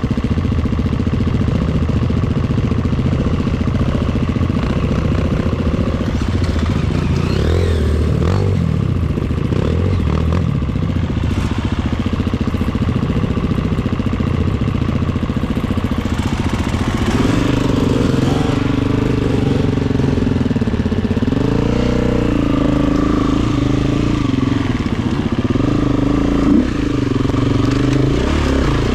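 Honda CRF250F dirt bike's single-cylinder four-stroke engine running under way, steady at low revs at first; from a little past halfway the revs rise and fall again and again as the throttle is worked.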